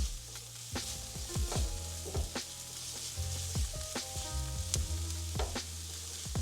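Onions sizzling in olive oil in a frying pan as they sweat, with a utensil stirring and clicking against the pan every half-second or so. Soft background music with a low bass line plays underneath.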